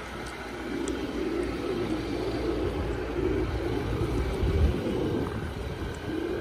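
Infiniti QX56's 5.6-litre V8 idling, heard from beside the SUV, with an uneven low rumble underneath.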